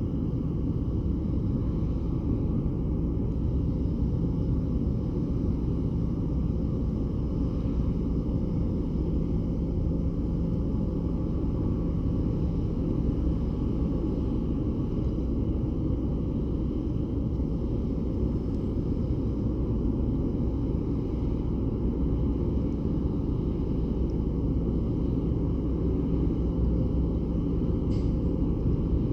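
Ferry Taiko's engines running with a steady low rumble and hum as the ship comes into port, with a few brief faint clicks near the end.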